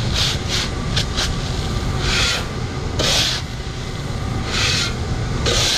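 Repeated scraping strokes as wet corn and sludge are cleaned off the floor of a grain leg pit: several quick scrapes in the first second, then longer ones about a second apart, over a steady low engine hum.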